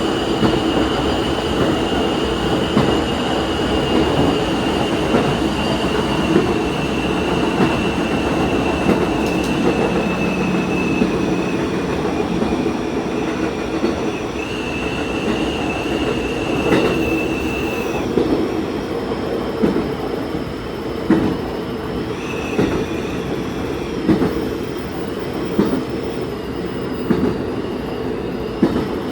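Diesel railcar running along the line, heard from inside the front of the car: steady running noise with a high whine that drifts slightly lower and fades out a little past halfway. Wheels clack over rail joints now and then, more often in the second half.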